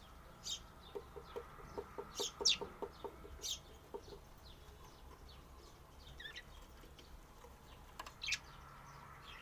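Budgerigars chirping in short, sharp, high calls, with a quick run of low ticking chatter for a few seconds about a second in.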